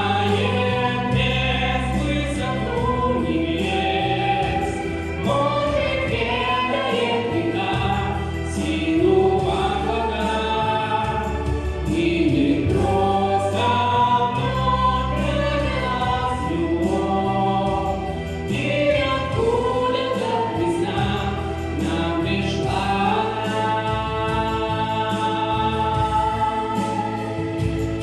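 A song: voices singing a flowing melody over an instrumental backing with a steady bass line.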